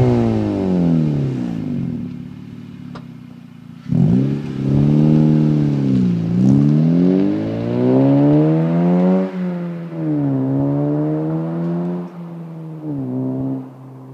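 2012 Honda Civic Si's 2.4-litre four-cylinder engine revving through a Tsudo catback exhaust and Injen short ram intake. The note falls back from a rev, then climbs and drops sharply several times, ending with a short blip.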